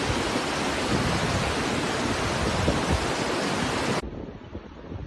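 Loud, steady rushing storm noise with no pauses. About four seconds in it cuts off abruptly to a quieter, gusty rushing sound.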